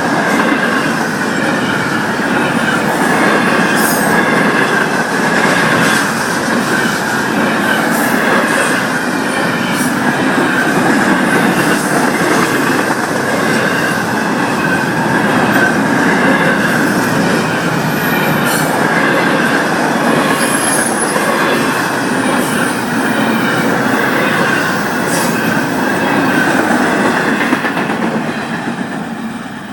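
Freight cars of a Florida East Coast Railway train rolling past, steel wheels on rail, with a steady high-pitched wheel squeal and occasional faint clicks. The sound starts to fade near the end as the tail of the train goes by.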